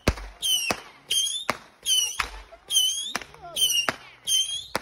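A fireworks cake firing a rapid series of whistling shots. Each shot is a high whistle that wavers in pitch for a fraction of a second and ends in a sharp bang, about one every three quarters of a second.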